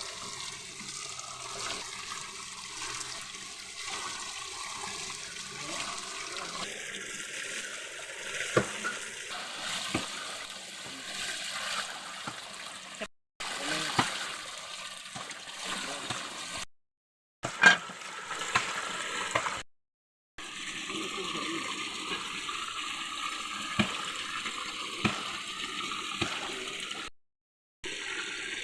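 Steady rush of flowing water, heard in several short clips cut together, with a few sharp clicks along the way.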